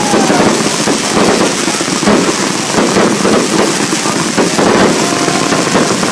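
Fireworks going off densely, with rapid overlapping bangs and crackles that never let up. A whistle falls in pitch at the start, and a fainter whistle sounds about five seconds in.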